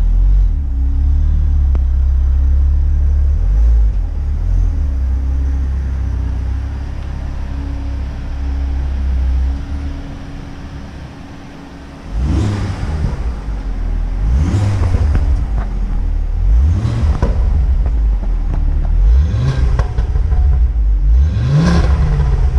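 Car engine running low and steady for about ten seconds, then revved five times, each rev climbing in pitch and falling back, roughly two seconds apart.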